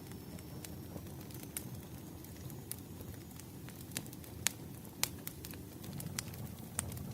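Fireplace fire crackling: a steady low rumble of burning with scattered sharp pops and crackles, two louder pops about halfway through.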